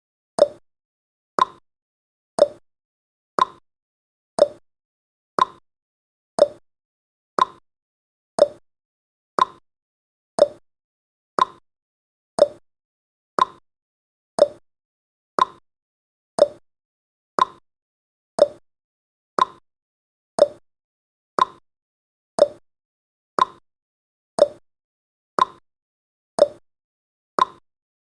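Countdown timer's tick sound effect: a short, sharp plop-like click once every second, evenly spaced, with silence between.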